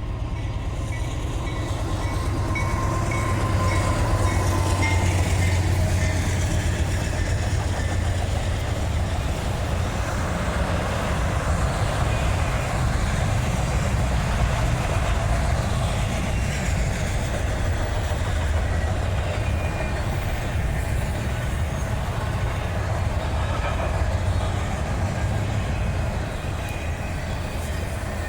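Freight train passing: a low diesel locomotive drone that peaks a few seconds in, then the steady rumble and clatter of rail cars rolling by.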